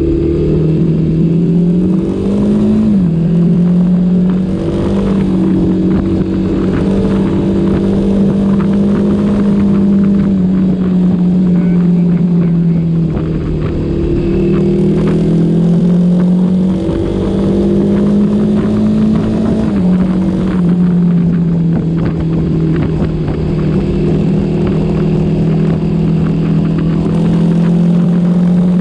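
A ridden vehicle's engine running steadily, its pitch stepping up and down several times: rising about three seconds in, sinking slowly around ten to thirteen seconds, rising again near fifteen and dropping near twenty. Rumbling noise from the ride runs underneath.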